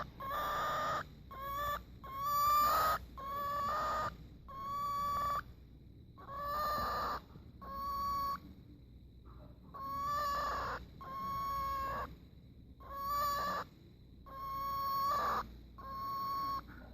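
Cockatiel repeating a drawn-out, steady-pitched call about a dozen times, roughly once a second. This is the unusual noise the bird makes now and then while being held.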